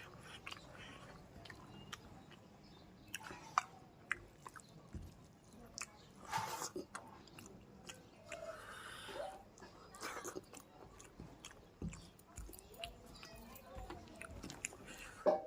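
A person chewing and eating food close to the microphone: soft mouth sounds with scattered small clicks and smacks, and a couple of louder brief bursts.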